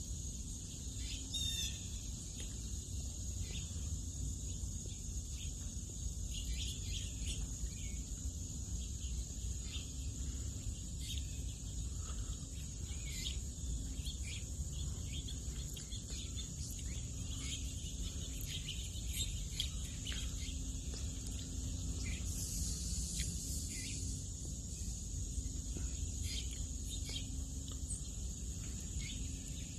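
Outdoor nature ambience: a steady high insect drone with many short bird chirps scattered through it, over a low rumble.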